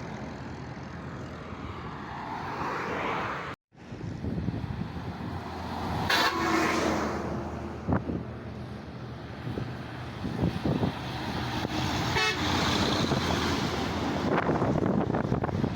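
Truck engines running on a road, with a vehicle horn tooting about six seconds in and again about twelve seconds in. A sharp knock comes about eight seconds in.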